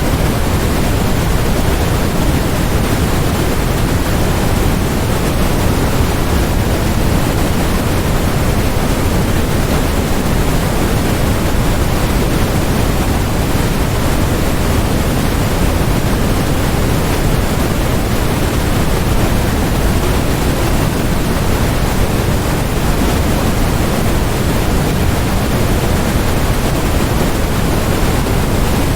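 Steady electronically generated noise, sold as white noise: a constant, unchanging rush, fuller in the lows than in the highs, with no rhythm or breaks.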